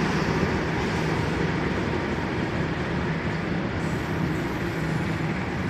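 Passenger coaches of a diesel-hauled long-distance train running through a station without stopping: a steady rumble of steel wheels on the rails.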